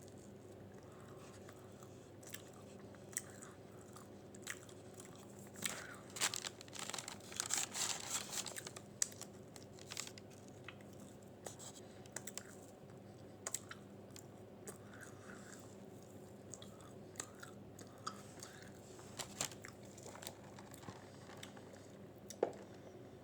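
Close-miked chewing and mouth sounds of eating a chicken and roasted red pepper wrap: scattered sharp, moist clicks, busiest a quarter to a third of the way through.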